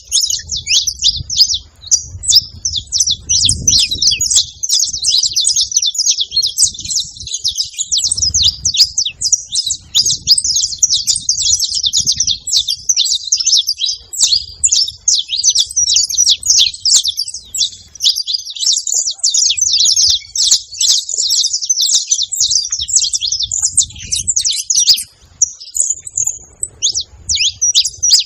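Saffron finch (canário-da-terra) chirping and singing in a rapid, unbroken stream of high notes.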